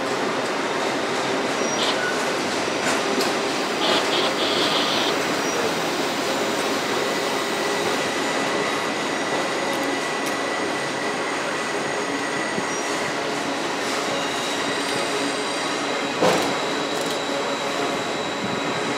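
Train cars rolling past just below, a steady rumble and hiss of steel wheels on rail. A thin, steady wheel squeal comes in about a third of the way through, and there is a single clank about sixteen seconds in.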